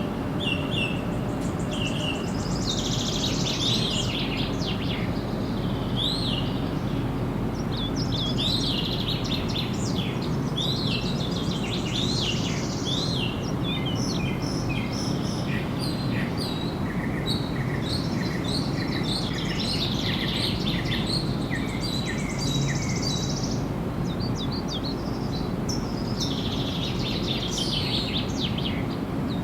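Several birds singing and chirping over a steady low background rumble of ambient noise, with bursts of busier song now and then.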